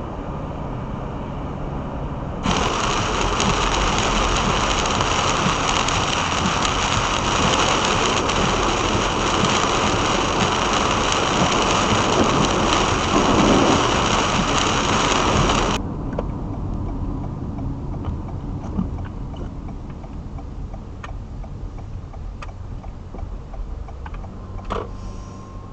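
Vehicle travelling through a thunderstorm: low, steady road and engine rumble, with a loud, even rush of wind and rain. The rush starts abruptly a couple of seconds in, lasts about thirteen seconds and cuts off just as suddenly.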